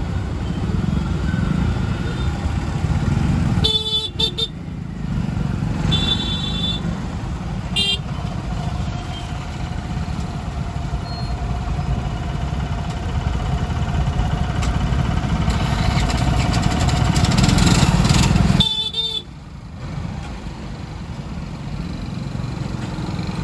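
Congested road traffic: engines idling and running, with motorcycle and car horns honking in short blasts every few seconds and one long, steady horn note in the middle.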